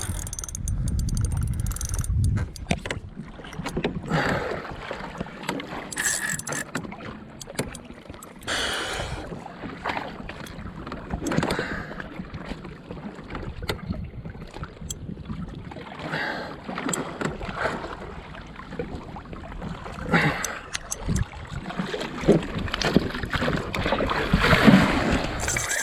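Sea kayak on the water: water splashing and sloshing against the hull, with irregular knocks and clicks of gear against the boat.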